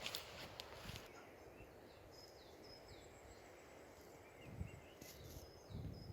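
Faint birdsong: a small bird's short high notes, each sliding down in pitch, repeated a few times, with some little chirps between, over a quiet rural background. A few soft low thumps come near the start and again towards the end.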